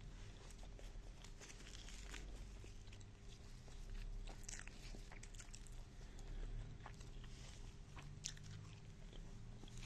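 A person chewing and eating potato egg bhujia close to the microphone, with many short mouth clicks and smacks over a low steady hum.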